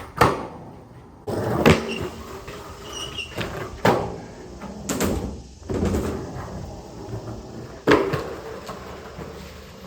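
Skateboard wheels rolling on concrete, broken by about five sharp clacks of the board and trucks landing and striking the ground.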